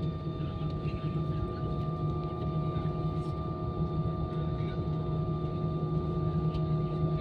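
Steady cabin hum inside an Airbus A320 on the ground, a constant drone carrying several fixed tones, the lowest and strongest a deep hum.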